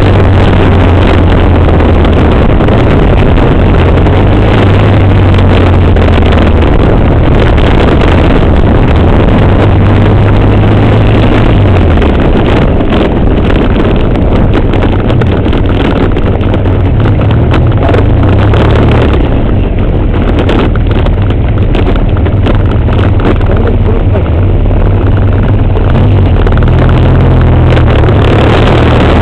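BMW R1200GS flat-twin engine running under the rider, mixed with wind rush on the microphone. The engine note drops about twelve seconds in as the bike slows to near idle in traffic, and the wind noise eases for a stretch past the middle before the engine pulls again near the end.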